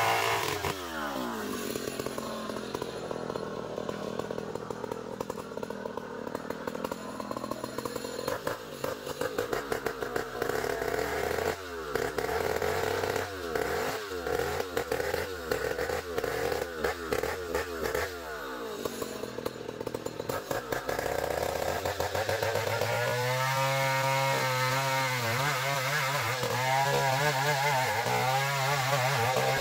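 Engine-driven 'gergaji trio' band sawmill running while cutting ironwood logs, its engine note changing with the cutting load: it drops near the start, shifts through the middle, and from about 23 seconds in settles into a loud, steady hum with a wavering pitch.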